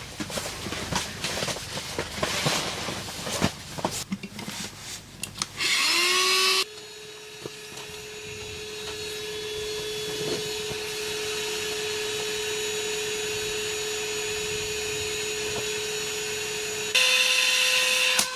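A small electric motor, like a power tool's, spins up with a rising whine and then runs at a steady pitch. Before it, about five seconds of irregular knocking and scraping.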